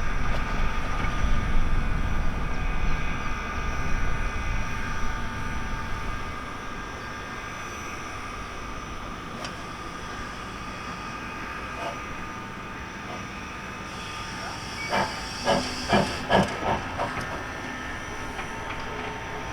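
Tubize 2069 steam locomotive hissing steam while rolling slowly, with a low rumble that drops away about six seconds in, leaving a steady hiss. Near the end comes a quick run of six or seven short, sharp sounds.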